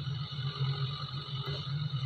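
The diesel engine of an XCMG 80C excavator running steadily, a low pulsing hum with a steady higher whine above it.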